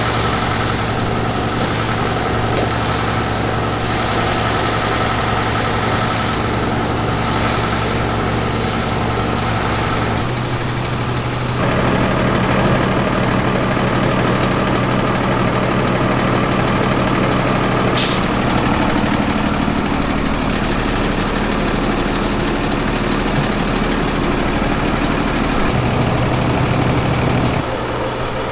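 A large engine idling with a steady low hum; the hum shifts to a different pitch and tone about a third of the way in, and a single short click sounds about two-thirds through.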